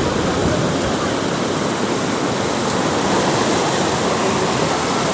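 Sea surf washing onto the beach: a steady rush of breaking waves.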